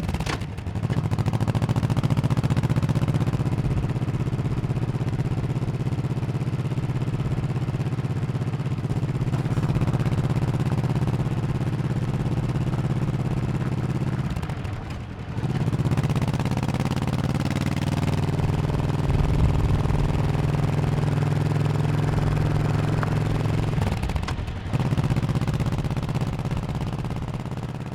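1100cc V-twin motorcycle engine running under way. The engine note dips and picks up again twice, about halfway through and near the end, then fades down in the last seconds.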